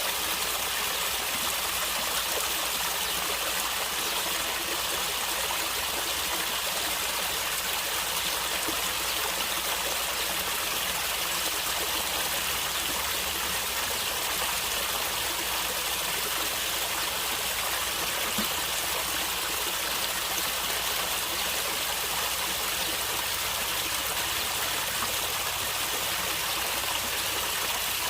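Water flowing and gurgling steadily in a stream, an even rushing sound that does not change.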